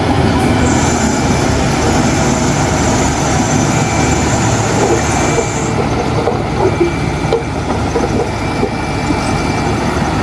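Heavy diesel earthmoving machinery running steadily, with a thin high whine that holds from just after the start to about halfway through.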